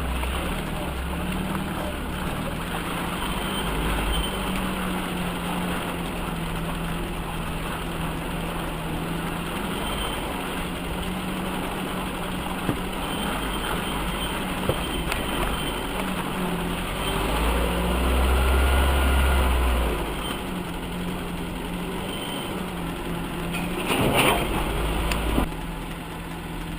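UAZ off-roader's engine running steadily, swelling louder for a few seconds about two-thirds of the way through, with a brief clatter near the end.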